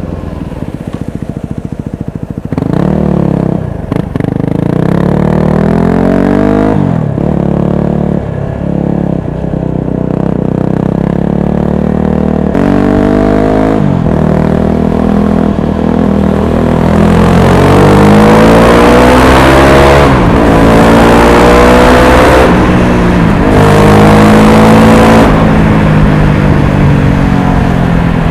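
Motorcycle with an aftermarket exhaust accelerating through a series of gear changes, the engine note climbing and then dropping back at each shift, louder in the second half.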